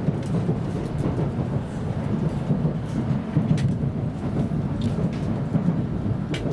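Cabin running noise of a W7 series Shinkansen train heard from inside the car: a steady low rumble with a few short sharp clicks from the wheels and track.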